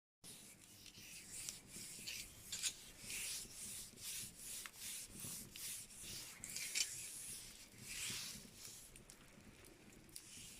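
Wood fire in a fireplace crackling, with swells of hissing and many scattered sharp pops.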